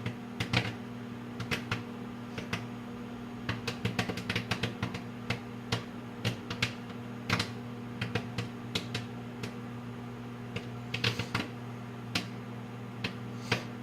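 Microwave popcorn kernels popping inside a running microwave oven. The sharp pops come irregularly, a few a second, with a short lull a little past the middle, over the oven's steady low hum.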